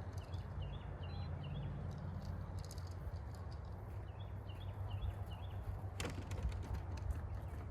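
Short high bird chirps in quick runs over a steady low rumble, with one sharp click about six seconds in.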